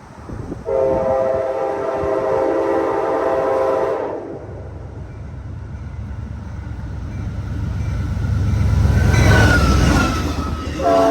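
Amtrak P42 locomotive's Nathan K5LA five-chime horn sounding one steady chord for about three seconds. The diesel locomotive and train then rumble past, building to a loud peak, and the horn starts again near the end.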